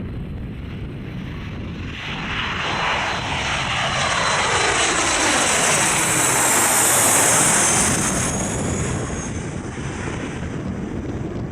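Avro RJ100's four turbofan engines passing by on landing, building to a peak and then fading, with a high whine that falls in pitch as the jet goes past. Gusting wind on the microphone underneath.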